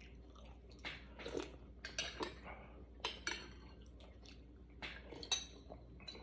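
Eating utensils clinking and tapping against a soup bowl: scattered light clicks, about ten over a few seconds.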